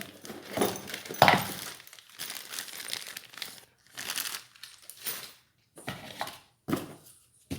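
Plastic packaging crinkling and rustling in irregular bursts as boxed ceiling-fan parts are handled, with a sharp clack about a second in and a few lighter knocks of parts later.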